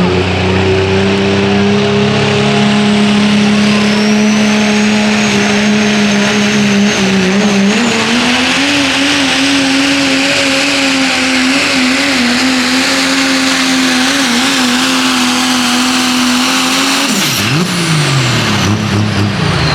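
Diesel pulling truck's engine running at high revs under full load during a pull. Its pitch steps up about eight seconds in and holds, then the revs fall away near the end.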